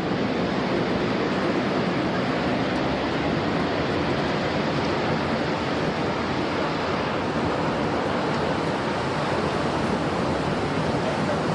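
Steady roar of storm wind and heavy rain buffeting a camera microphone during a tornado.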